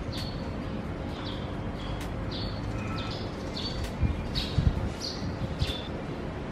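Small birds chirping, short falling high notes about twice a second, with a few dull low thumps about four to five and a half seconds in.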